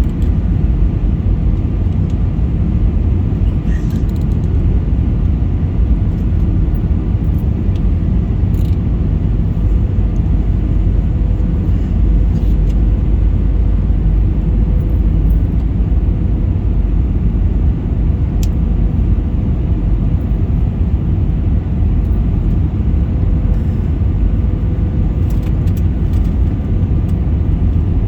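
Airliner during landing: a steady low rumble with a faint steady hum through it.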